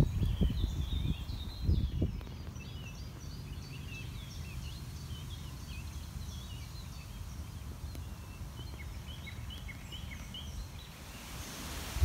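Birds singing: a chorus of many short, high chirps that overlap throughout. In the first two seconds, low rumbling thumps are the loudest thing.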